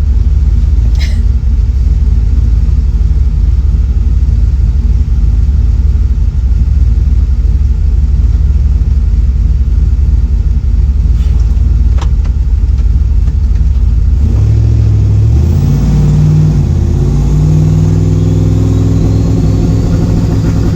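Turbocharged truck engine running with a steady low drone, then, about two-thirds of the way through, accelerating hard, its pitch climbing and shifting, with a faint rising whistle near the end.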